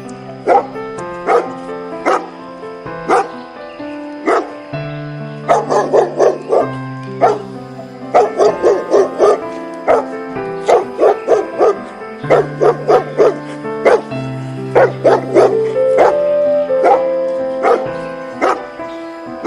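A dog barking over and over, sometimes in quick runs of four or five barks, over background music with sustained chords and a bass line.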